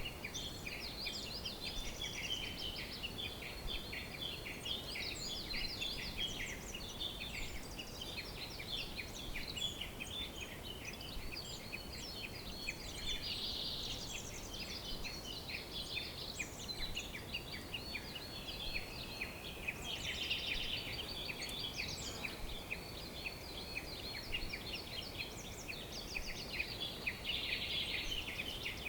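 A chorus of many small birds singing and chirping over one another without a break, rapid high chirps and trills layered over a faint steady background hiss.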